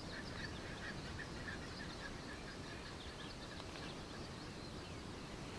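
Faint outdoor ambience: a steady low background hiss and rumble, with a bird repeating a short high note about four or five times a second through the first half.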